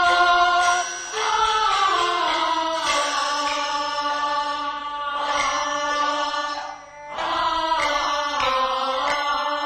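Teochew opera music: a long-held, wavering melodic line with accompaniment, briefly dropping away about seven seconds in.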